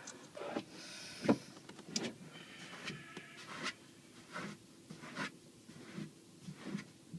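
Bison licking and nuzzling the truck's body, heard from inside the cab: irregular rubbing scrapes and knocks, with a sharper knock about a second in, over a faint steady hum.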